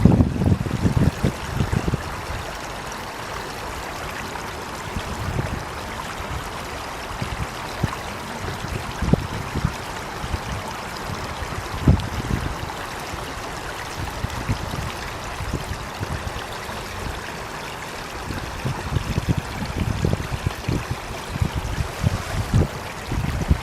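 Running water flowing and trickling steadily, with irregular low thuds that come and go, heaviest in the first couple of seconds and again in the last few seconds.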